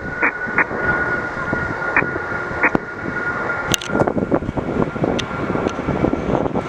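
Air traffic control radio receiver hiss, cut off high up as through a radio speaker, with a steady high whistle that stops a little over halfway through and a few sharp clicks.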